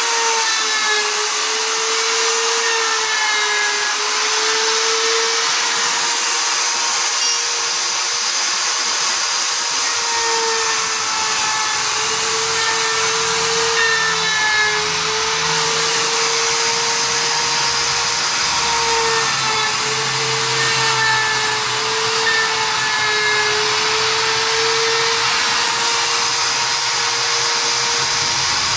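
Router running in a planing jig, surfacing rough sawn lumber: a steady high motor whine that wavers a little in pitch over a hiss of cutting.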